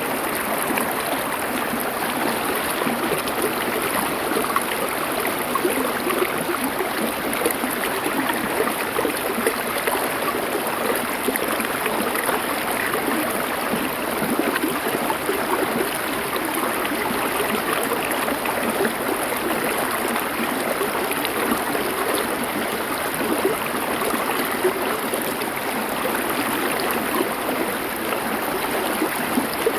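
River water flowing over stones in a steady, even rush.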